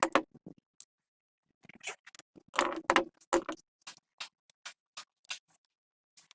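Irregular sharp clicks and knocks, with a cluster of louder clattering knocks about two and a half to three and a half seconds in, then lighter ticks about twice a second.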